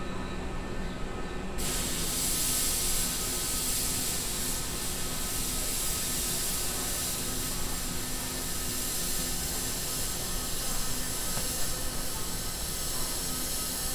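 Stopped Keisei AE-series Skyliner train humming at the platform with a few steady tones; about a second and a half in, a loud steady hiss of air starts suddenly and keeps on.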